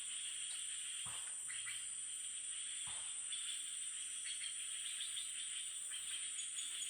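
Steady high-pitched chorus of forest insects, with two faint knocks about one and three seconds in.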